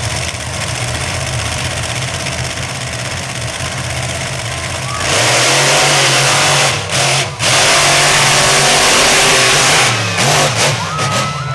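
Monster truck engine running steadily, then revving up much louder about five seconds in and staying at high throttle.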